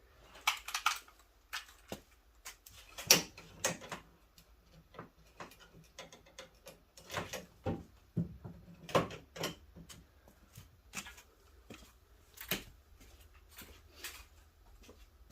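Irregular clicks, clinks and knocks of hand tools and sockets being handled while working on a car door bolt, the loudest about three seconds in.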